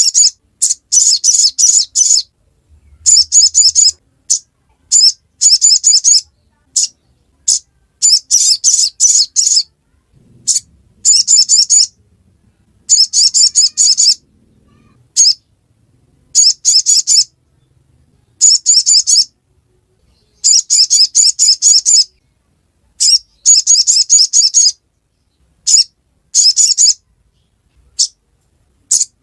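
Little spiderhunter (sogok ontong) giving its rapid, high-pitched 'ngriwik' chattering call in repeated bursts, each lasting about half a second to two seconds, with short silent gaps between them.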